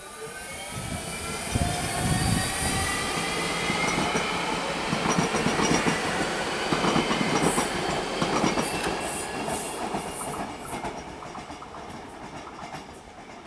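ÖBB Cityjet electric multiple unit passing: a running rumble with a whine that slowly falls in pitch, then wheels clacking over rail joints and points in the second half as it draws away and fades.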